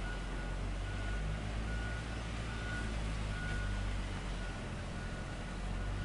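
A vehicle's reversing alarm beeping steadily, a little more than once a second, over the steady hum of its running engine.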